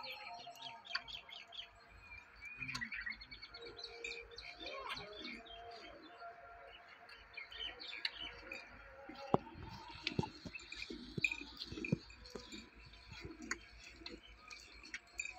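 Small birds chirping and twittering continuously, with a few short knocks around the middle.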